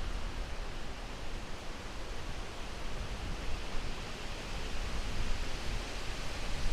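Steady wind: an even, hissing rush with a deep low rumble underneath, swelling and easing a little in uneven gusts.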